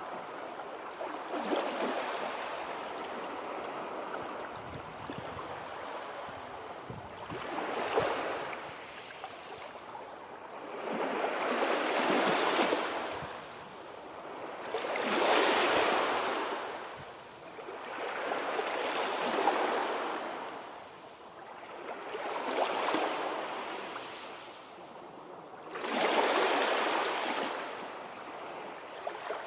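Sea waves washing onto the shore, swelling and falling away in repeated surges every three to four seconds.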